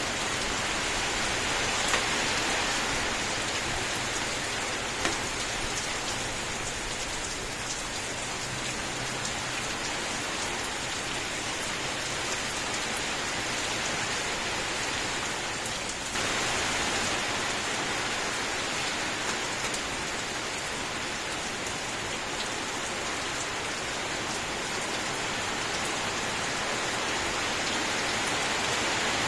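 Steady rain falling on a surface, an even hiss of many drops with a few louder single drop hits in the first few seconds. About halfway through, the sound steps abruptly to a slightly different texture, as at a splice in a looped recording.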